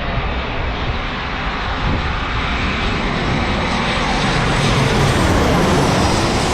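Boeing 737 airliner on final approach, its jet engine noise growing steadily louder and brighter as it comes closer.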